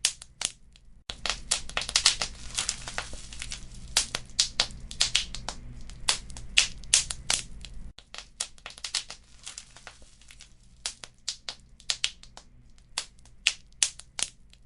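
Wood fire crackling, with many quick, irregular pops and snaps over a low steady rumble. It grows busier and louder about a second in, then thins to sparser pops at about eight seconds.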